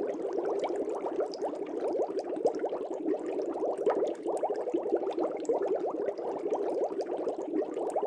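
Air bubbles streaming up through fish tank water: a dense, steady bubbling made of many quick rising blips.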